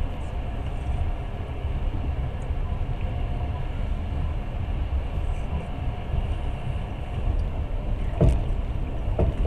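Passenger train running along the track, a steady low rumble heard from inside the carriage, with a sharp knock about eight seconds in and a softer one near the end.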